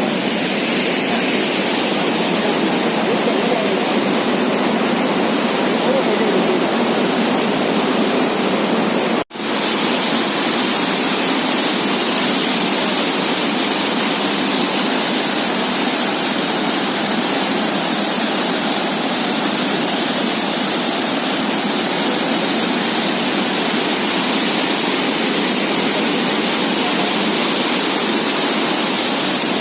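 Lodh Falls, a tall waterfall, with water falling from high up in a loud, steady rush. About nine seconds in the sound cuts out for a split second, then comes back unchanged.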